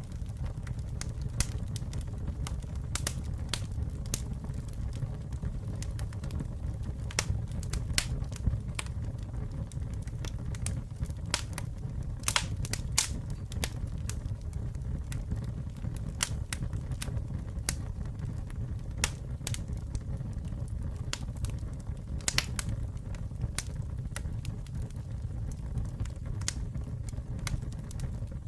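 Wood fire burning with a steady low rumble and frequent irregular crackles and pops. A few sharper, louder snaps come about twelve seconds in and again around twenty-two seconds.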